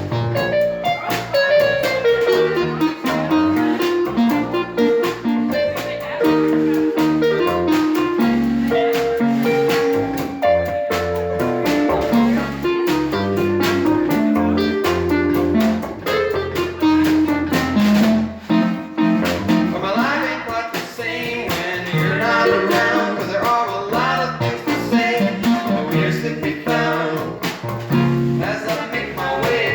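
A band playing an instrumental passage of a song live, with plucked guitar over a steady rhythm and a stepping melodic line.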